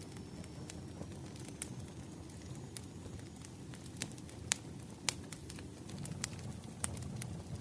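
Wood fire crackling: irregular sharp pops and snaps over a steady low rush of burning logs.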